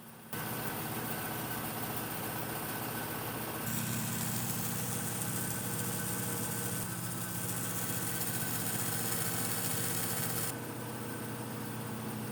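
Restored 1950s Delta Milwaukee Crescent 20-inch bandsaw with a 3 horsepower motor running: a steady machine hum that starts abruptly just after the beginning. Between about four and ten seconds in it is louder, with more hiss, and the sound shifts suddenly at each change.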